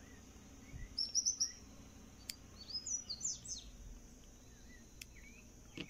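Small birds chirping in two short runs of quick high chirps, about a second in and again around three seconds in. Two faint sharp clicks come from small scissors snipping the thread ends.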